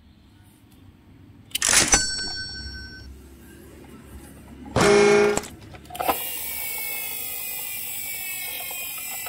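Electronic sound effects from a toy ambulance. A sharp clack with brief ringing tones comes near two seconds in, and a short honk-like tone about five seconds in. Then a steady electronic sound with slowly falling tones runs on.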